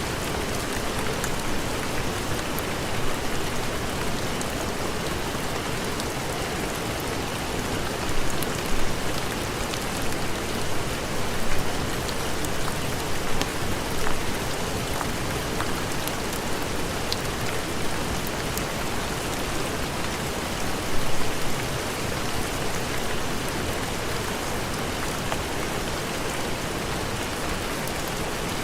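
Heavy rain falling steadily, a dense even hiss with scattered sharp little ticks and a few brief louder swells.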